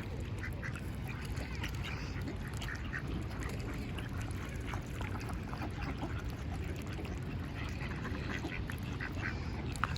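Ducks calling: many short calls scattered throughout, over a steady low background rumble.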